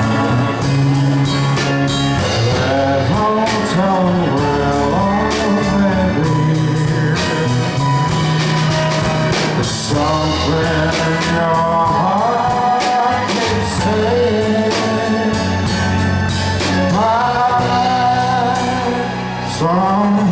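Live band playing a slow ballad with singing over it, the voice holding and bending long notes over a steady beat.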